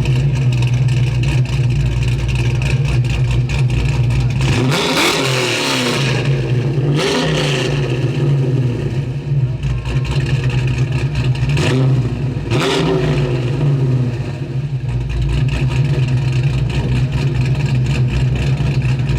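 Car engine idling with a steady low drone, revved up and let back down a few times, about five, seven and twelve seconds in.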